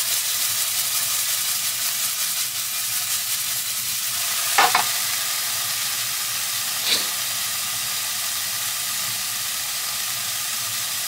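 Diced chicken pieces sizzling steadily as they fry in a wok over a portable gas stove, an even hiss. A brief louder sound about four and a half seconds in and a small tick a couple of seconds later.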